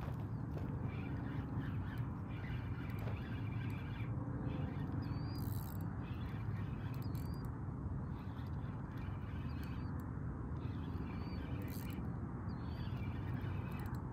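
A bird gives a short high chirp about every two seconds, five times, over a steady low rumble.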